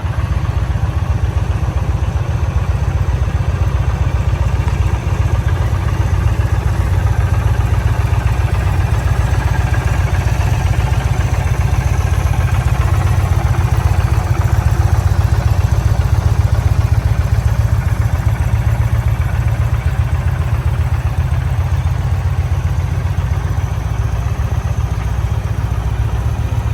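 2024 Indian Challenger Elite's liquid-cooled V-twin engine idling steadily, with no revving.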